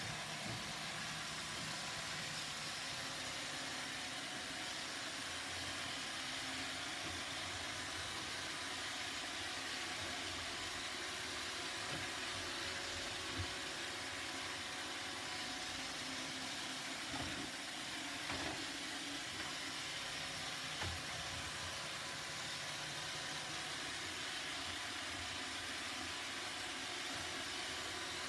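Roomba robot vacuum running steadily with its even motor and brush noise, with a few light knocks around the middle.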